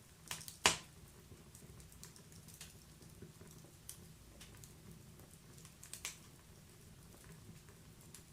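Wood fire crackling: a steady soft hiss with scattered sharp pops, a quick cluster less than a second in with one loud snap, and another pair about six seconds in.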